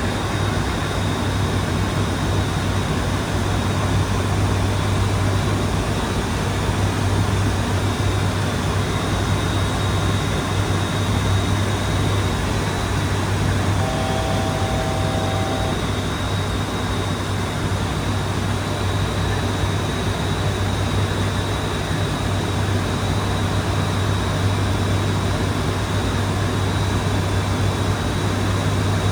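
Steady drone of an ATR 72-600's turboprops heard from inside the aircraft, with a strong low propeller hum. About halfway through, a short two-tone electronic chime sounds for about two seconds.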